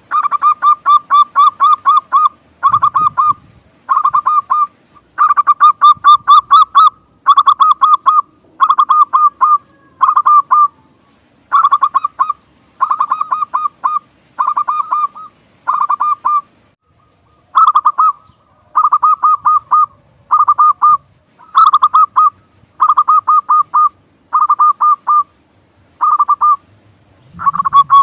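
Zebra dove (perkutut) cooing: short trains of rapid, stuttering notes repeated over and over with brief pauses between them.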